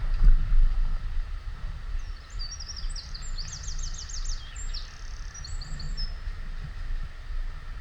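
A small bird sings a few seconds of varied high chirps with a quick trill in the middle, over a low wind rumble on the microphone.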